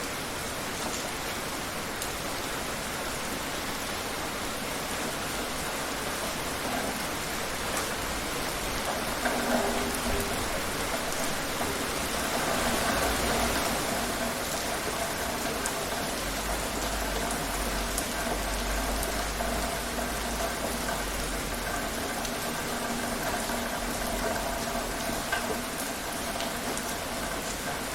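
Steady rain falling, an even hiss of drops on surfaces. From about ten seconds in, a faint steady hum and a low rumble sit under it.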